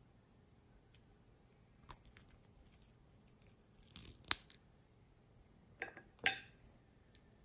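Slime being pressed and worked by hand, giving scattered small clicks and crackles. Two sharper, louder pops stand out, one about four seconds in and the loudest about six seconds in.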